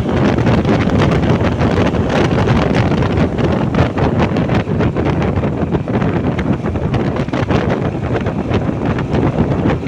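Heavy wind buffeting the microphone on a moving motorbike, with the bike's engine and road noise running steadily beneath it.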